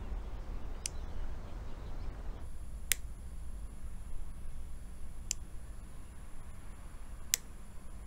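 Quiet room ambience with a low hum, broken by a sharp click every two seconds or so, four in all. A faint high-pitched whine comes in about a third of the way through.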